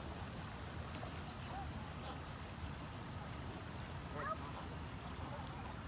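Ducks quacking a few times, short and faint, the clearest call about four seconds in, over a steady low rumble.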